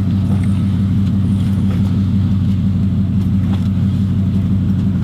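Car engine and road drone heard from inside the cabin, a steady low hum.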